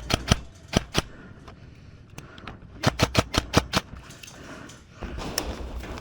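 Airsoft guns firing sharp cracking shots: a few single shots in the first second, then a rapid burst of about eight shots around three seconds in, and one more shot near the end.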